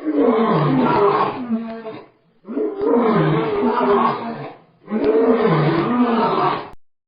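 A big cat roaring three times, each roar about two seconds long with short pauses between.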